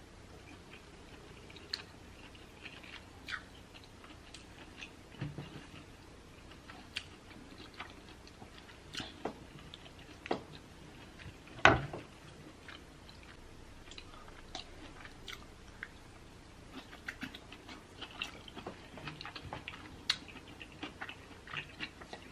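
Close-miked chewing and biting of seafood boil, with many short wet clicks and smacks. One loud thump about twelve seconds in.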